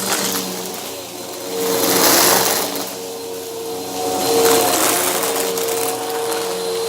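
Bissell vacuum cleaner running with its brushroll crunching debris: a steady motor hum with two swells of louder crackling crunch, about two seconds in and again around four and a half seconds.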